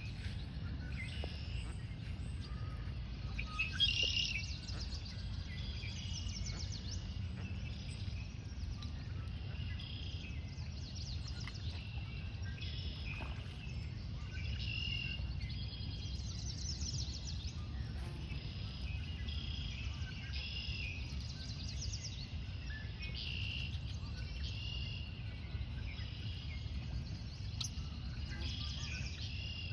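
Several songbirds calling and singing in short repeated phrases, over a steady low rumble.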